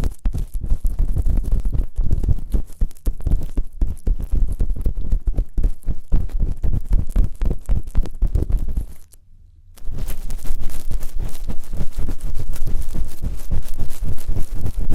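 ASMR ear-cleaning sounds: fast rubbing and scratching on both ears of the microphone, a dense, grinding run of strokes. It stops for under a second about nine seconds in, then resumes with a brighter, scratchier texture.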